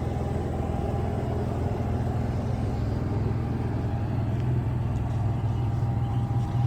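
An engine running steadily: a low, even hum with a faint steady whine above it.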